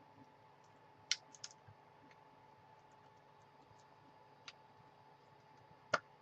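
A few sharp, scattered clicks and taps of hard plastic being handled, two close together about a second in and the loudest one near the end, over a faint steady hum.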